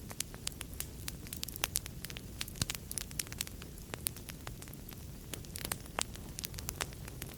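Wood fire crackling: irregular sharp pops and snaps over a low steady rumble of flames, with a louder pop about two and a half seconds in.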